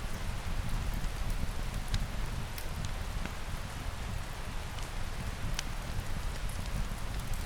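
Steady rain falling, an even hiss with a low rumble under it and scattered sharp clicks of drops or crackles.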